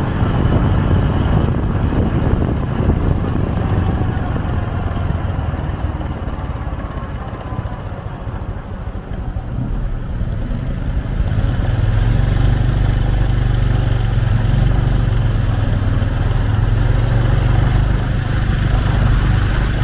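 Motorcycle taxi's engine running with road and wind noise as it rides through city traffic. The sound dips for a few seconds in the middle, then a steadier low engine hum takes over for the second half.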